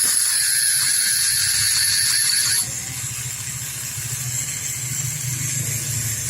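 Two-stroke Vespa scooter engine running steadily, with a high whine over it that cuts off suddenly about two and a half seconds in.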